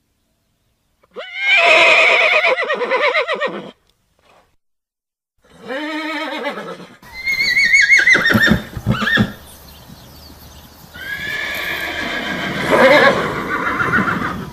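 Horses neighing: four separate whinnies, each one to three seconds long, the first high and quavering. A faint steady background hiss comes in under the later calls.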